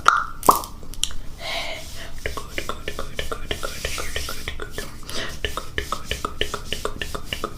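ASMR mouth sounds close to the microphone: a rapid run of small wet clicks and smacks of tongue and lips, several a second, with a brief breathy whisper-like hiss about one and a half seconds in.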